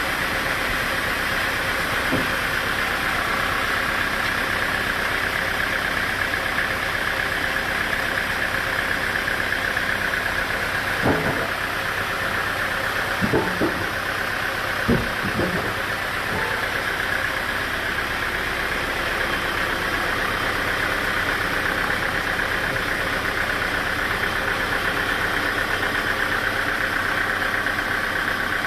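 An engine running steadily, with a few short knocks around the middle.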